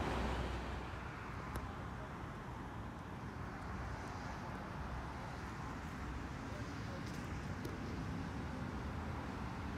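Rumble of a train that has just passed, fading out over the first second, leaving a steady low background rumble with faint hiss.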